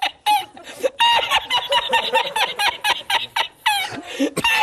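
Rapid chattering run of short, squeaky calls, many a second, each dropping in pitch, like a cartoon animal or gibberish-voice sound effect.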